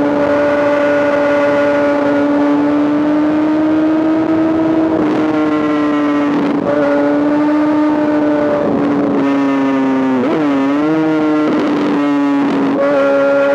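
A Honda CBR1000RR inline-four engine breathing through an SC-Project exhaust, running at a high, fairly steady pitch while the bike rides. About ten seconds in the pitch briefly drops and climbs back.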